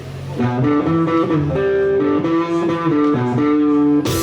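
Electric guitar playing a single-note melodic line of held notes, with a loud crash like a cymbal hit near the end.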